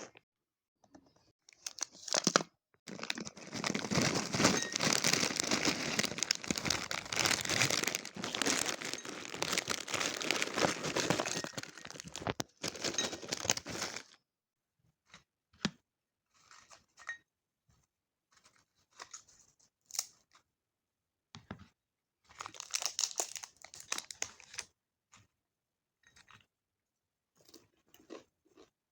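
Snack packaging being torn open and crinkled in a long, dense stretch, followed by scattered light crackles and clicks, with a second shorter bout of crinkling about three-quarters of the way through.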